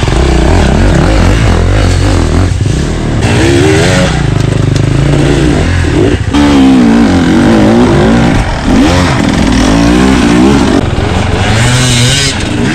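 Husqvarna TE300's two-stroke enduro engine running hard and being revved over and over, its pitch repeatedly climbing and dropping.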